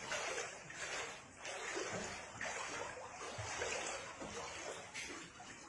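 Floodwater splashing and sloshing in repeated surges, about one or two a second.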